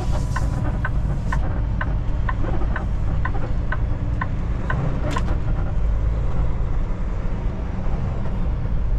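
Inside a Kenworth T680 semi-truck cab: the steady low drone of the diesel engine and road noise, with the turn-signal indicator ticking about twice a second until about five seconds in, ending with a sharper click.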